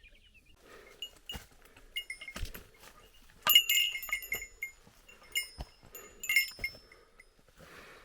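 Small metal bell jingling irregularly, with a loud cluster of rings about three and a half seconds in and another near six seconds, mixed with scattered knocks.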